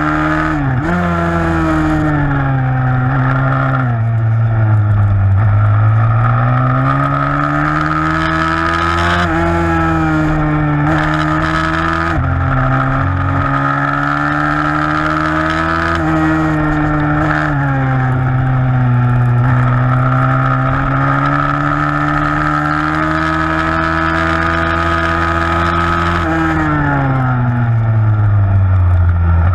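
Single-cylinder four-stroke 160cc pit bike engine racing, its revs climbing and dropping again and again as the rider accelerates and backs off.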